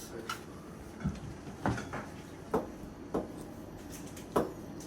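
About six short, sharp knocks and clicks, irregularly spaced, over a low background.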